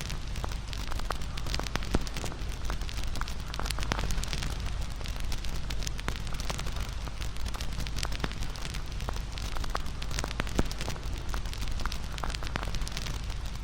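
Wood fire burning, crackling steadily with many quick sharp pops, one louder pop about two-thirds of the way through.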